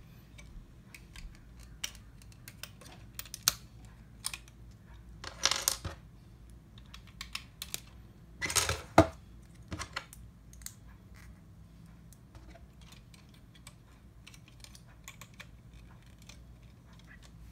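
LEGO plastic pieces clicking and rattling as a landing gear is fitted onto a LEGO airplane: scattered light clicks, with two louder bursts of handling about five and nine seconds in.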